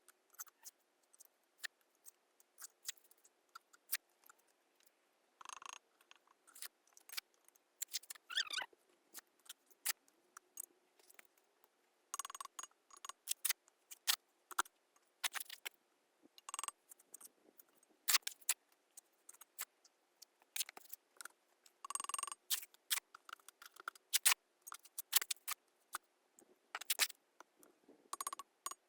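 Mason's trowel working mortar and clay bricks: irregular sharp clicks and taps with short scrapes, scattered throughout.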